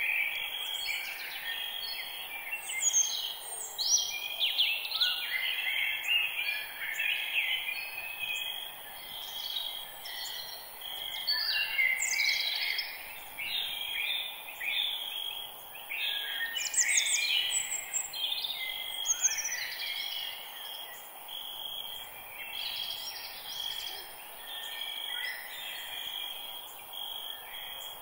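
Forest birdsong: several birds chirping and trilling over one another, busiest in the first two-thirds and thinning out toward the end, over a faint steady hiss and a steady high tone.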